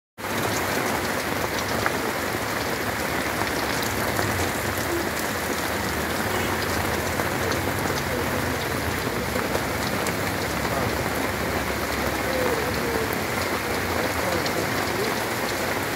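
Heavy rain falling steadily on brick paving, a dense even hiss with many individual drops ticking close by.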